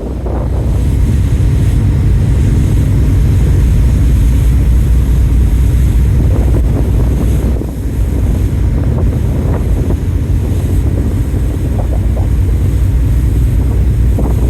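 Strong wind buffeting the microphone aboard a ferry at sea, a loud steady low rumble over the rush of wind and sea.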